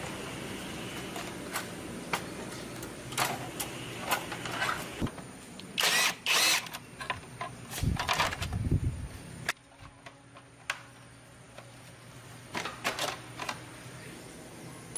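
Scattered clicks and knocks of hand work, with two louder noisy bursts about six seconds in and low thuds about two seconds later, over a steady machine hum that cuts off about nine and a half seconds in.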